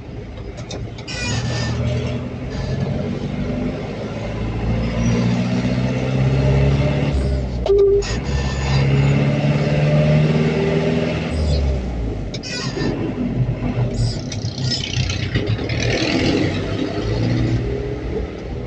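Pick-up truck engine pulling away in traffic, its pitch rising twice with a brief break in between, over steady road noise.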